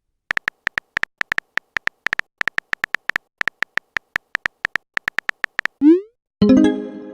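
Chat-animation sound effects: a rapid, uneven run of identical short electronic blips like a typing sound, then a quick rising swoosh and a louder multi-tone chime near the end, like a message being sent and arriving.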